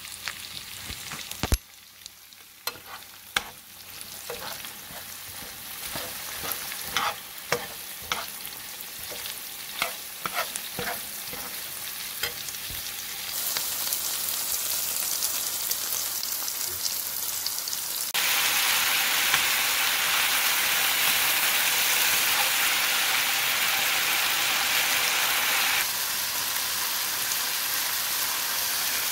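Okra and red onion frying in oil in a pan, with a spoon stirring and scraping and giving sharp clicks against the pan. Partway through, the sizzle gets much louder and stays loud as shrimp cook in the pan.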